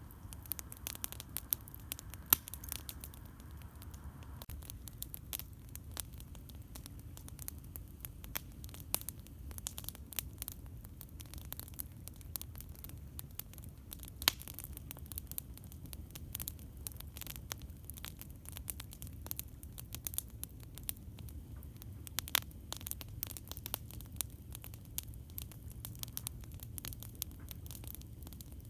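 Campfire crackling: wood popping in irregular sharp snaps, a few of them louder, over a steady low rumble.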